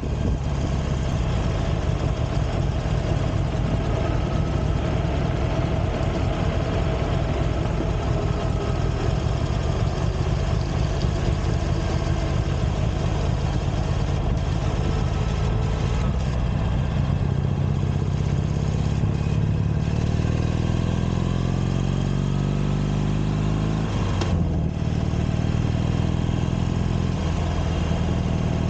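Harley-Davidson Iron 883's air-cooled 883 cc V-twin running steadily while riding. In the second half the engine note rises in pitch over several seconds, then briefly drops and runs steady again.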